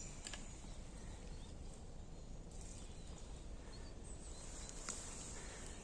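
Faint, steady outdoor forest background hiss with two light clicks, one shortly after the start and one near the end.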